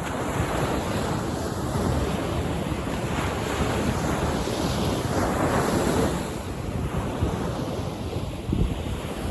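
Sea waves breaking and washing on a beach, the surf swelling to a peak about midway and easing off again, with wind buffeting the microphone.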